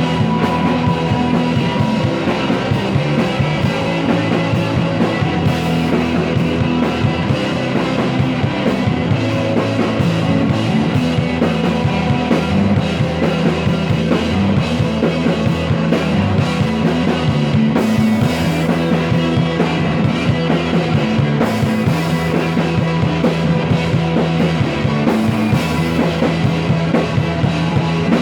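Rock band playing an instrumental passage: drum kit with cymbals, bass and guitar at a steady, loud level, with no singing.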